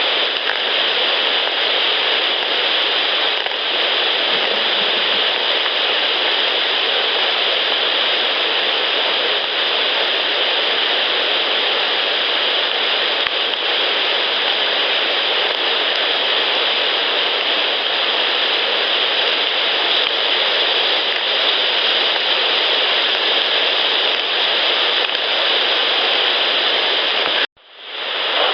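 Steady, loud hiss with no distinct events standing out of it. It cuts out abruptly near the end and fades back in, where one clip ends and the next begins.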